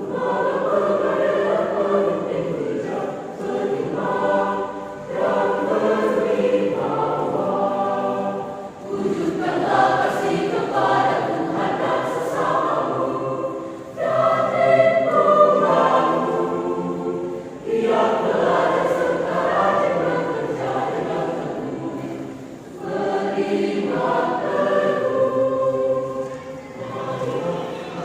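Church choir singing in parts, in phrases a few seconds long with short breaths between them.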